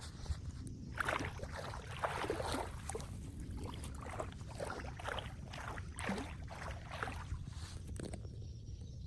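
Floodwater splashing and sloshing in irregular bursts over a steady low rumble of flowing water. About eight seconds in, the splashing stops.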